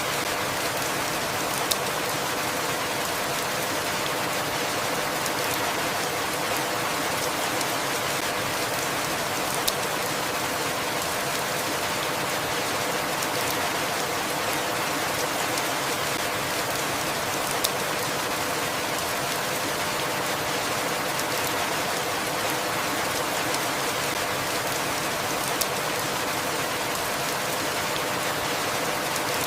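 Steady, even rainfall, with a few sharp single drop ticks about eight seconds apart.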